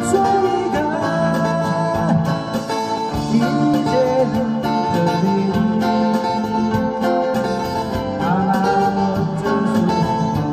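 Acoustic guitar being played, a plucked melody over low bass notes, with a couple of sliding notes.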